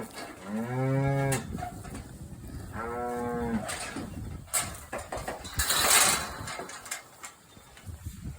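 Cattle mooing: two long calls, the second higher-pitched than the first, followed a couple of seconds later by a brief rush of noise.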